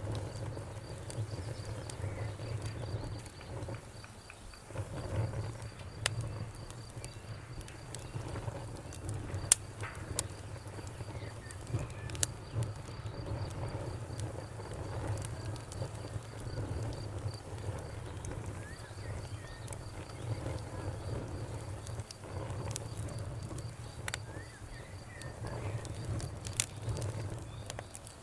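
Wood fire crackling with scattered sharp pops over a low rumble, with a cricket chirping steadily in a high pulsing trill that pauses for a few seconds in the middle.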